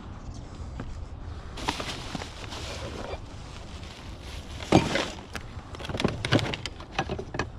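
Knocks and clatter of scrap being handled and pulled from a curbside pile, the loudest about five seconds in, over a steady low hum. A stretch of rustling comes about two seconds in.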